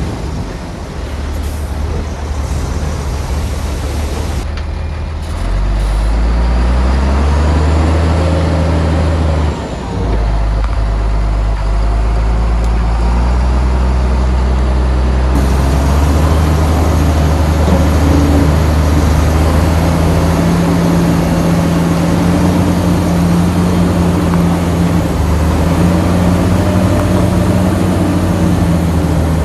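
Shantui bulldozer's diesel engine working under load. It revs up a few seconds in, dips briefly about ten seconds in, then runs steady at a higher pitch.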